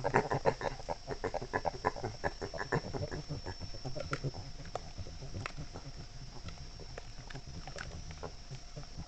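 Animal calls: a rapid run of short calls for about three seconds, thinning out to a few scattered ones after that.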